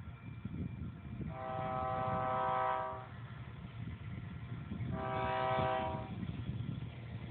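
Diesel locomotive air horn on a Union Pacific grain train sounding two blasts, the first about a second and a half long, the second a little over a second, over a steady low rumble.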